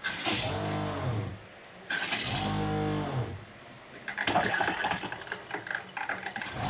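Boat's freshwater pressure pump humming in short bursts of about a second each, cutting in and out while water runs from the tap. Each burst rises a little in pitch as it stops, and there is a stretch of water splashing in the middle.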